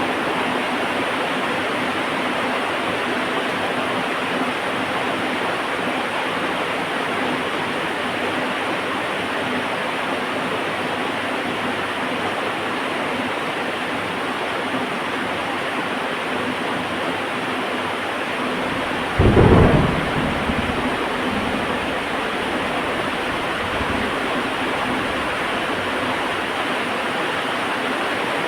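Heavy, steady rain with a single loud crack of thunder about two-thirds of the way through, rumbling off over the next couple of seconds.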